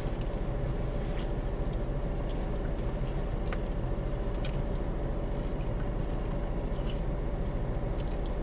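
A person chewing a mouthful of burger, with faint scattered wet mouth clicks, over a steady low background hum.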